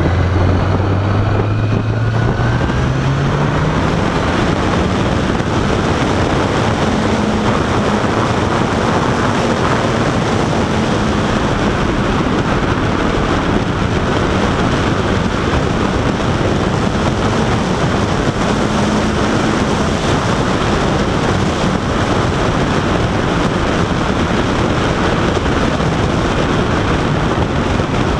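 Honda CBR1000RR sportbike's inline-four engine pulling up through the revs in the first few seconds, then holding a steady cruising speed, with heavy wind rushing over the rider's microphone.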